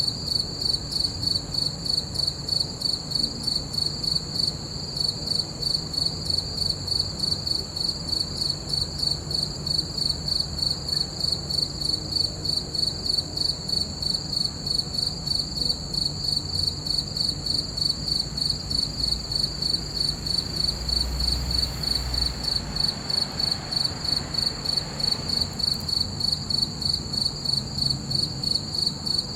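Crickets chirping in a steady, even, high-pitched pulse several times a second. A brief low rumble comes about two-thirds of the way through.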